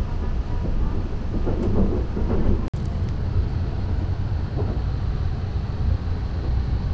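Saphir Odoriko limited express train running, a steady low rumble with road-like noise over it. The sound cuts out for an instant about two and a half seconds in.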